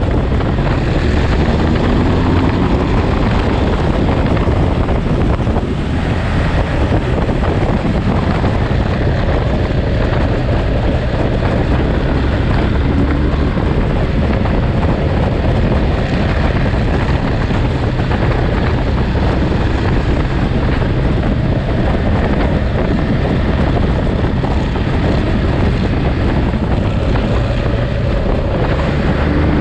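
Ducati Monster's L-twin engine running under way, with heavy wind rushing over the microphone. The engine pitch rises briefly a few times.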